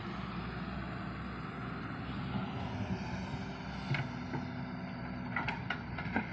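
Engine of earth-moving machinery running steadily while backfilling a trench, with a few sharp knocks near the end.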